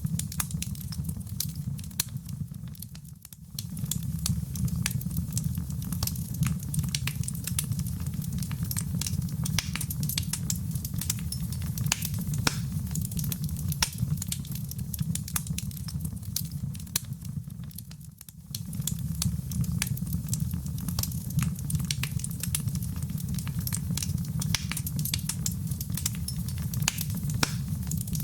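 Fire in a fireplace, crackling and popping continually over a low, steady rumble of flames. The sound dips briefly twice, about three seconds in and again near the middle.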